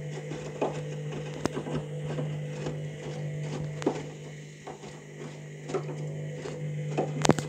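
Candy front-loading washing machine in its main wash: the drum motor gives a steady hum while the tumbling load makes irregular soft knocks and clicks, with one sharp click near the end.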